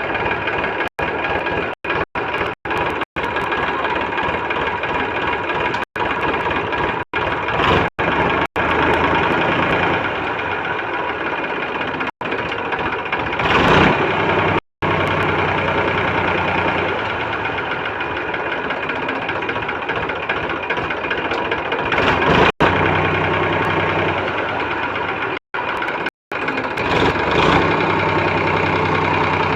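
Tractor diesel engine running steadily, swelling louder for moments a few times. The sound cuts out completely for an instant many times.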